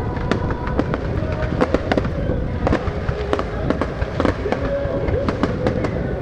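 Fireworks going off in a rapid, continuous barrage of sharp bangs and crackles, several a second, over a low rumble.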